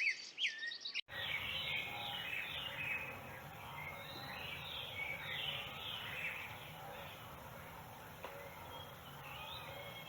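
Wild birds calling: a few clear, sweeping call notes, then, after an abrupt change about a second in, a dense chorus of many birds chirping over steady background noise.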